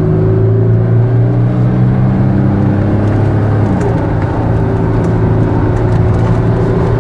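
Audi Q7's 3.0-litre V6 turbodiesel at full throttle, heard from inside the cabin as the SUV accelerates hard. The engine note holds a steady pitch with a brief dip about four seconds in.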